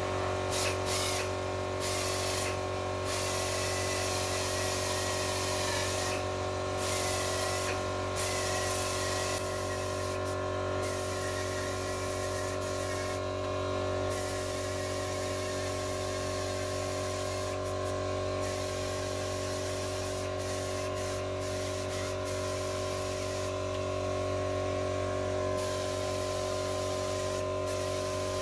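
Aerosol spray-paint can spraying in long hissing passes with several short breaks, over a steady low hum.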